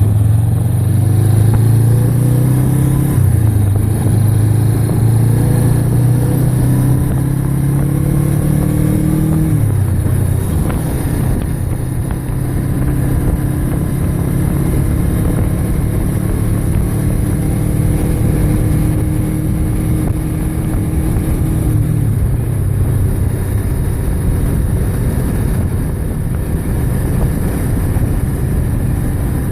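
Motorcycle engine running on the road under a steady rush of wind and road noise. Its note climbs slowly, drops sharply about ten seconds in, then holds steady and fades into the wind noise about two-thirds of the way through.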